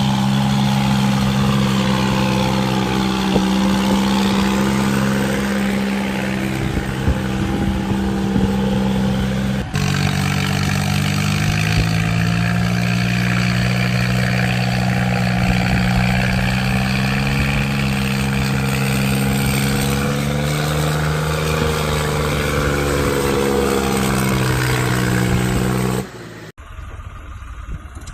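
Tractor diesel engine working hard under load, pulling a fully loaded trolley out of a field. It runs at a steady note, then the pitch sags and recovers. The sound changes abruptly about a third of the way in, and drops to a quieter engine sound near the end.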